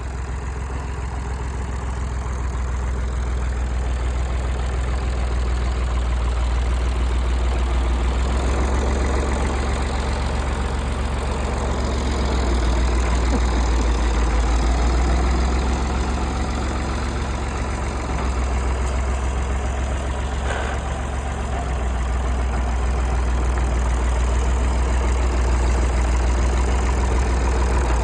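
Mid-1960s farm tractor's engine running steadily with a deep low tone, its loudness swelling and easing every few seconds as it works.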